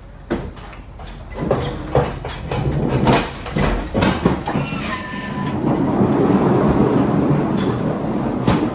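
Manual pallet jack being pulled and pushed with a loaded pallet: steel wheels rolling and rattling over the floor, with a run of clanks and knocks, a short squeal about five seconds in, then a steady rolling rumble.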